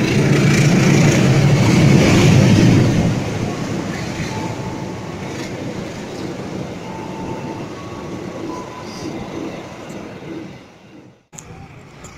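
Rumble and rattle of a train rolling over the track, heard from aboard. It is loudest for the first three seconds, then eases to a steadier, quieter running noise, and cuts off abruptly near the end.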